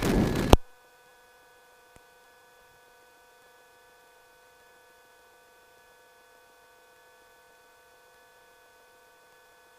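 Faint steady electrical hum, several even pitched tones, in the aircraft's intercom audio after a radio voice cuts off in the first half second. A single faint click about two seconds in.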